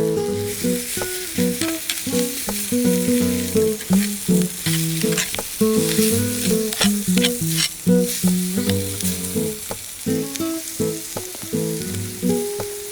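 Food sizzling and crackling in a hot pan, with frequent sharp pops, over steady plucked acoustic guitar music.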